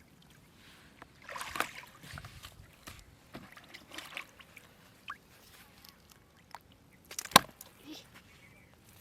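Water sloshing and splashing at the river's edge, with scattered small knocks and one sharp, loud splash or knock about seven seconds in.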